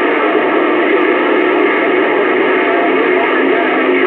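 CB radio receiver audio from a crowded skip channel: several stations keyed up at once, garbled and overlapping, with steady heterodyne whistles held over the jumble.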